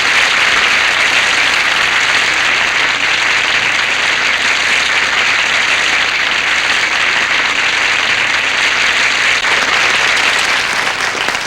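Studio audience applauding steadily, dense and sustained, easing off slightly near the end.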